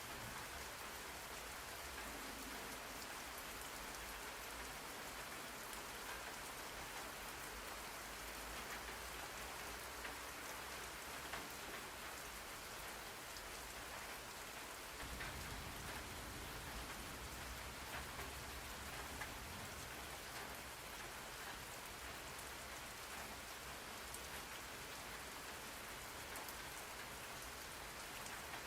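Steady rain falling on a surface, an even hiss with scattered individual drops ticking through it. A low rumble underneath grows stronger about halfway through.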